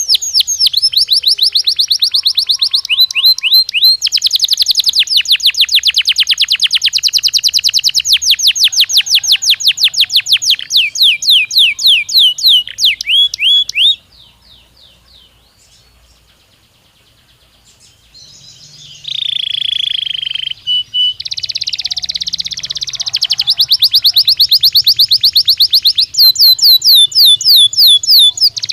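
Belgian canary singing in long, rapid trills of quickly repeated high notes. About halfway through the song breaks off for a few seconds, then resumes with a steady held note and more fast trills.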